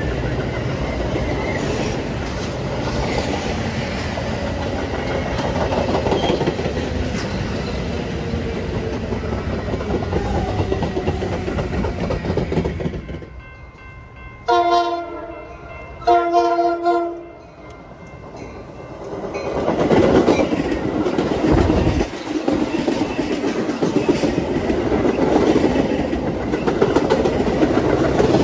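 A train passing close by, then after a short lull two blasts of a locomotive horn, each a little over a second long, followed by another train passing.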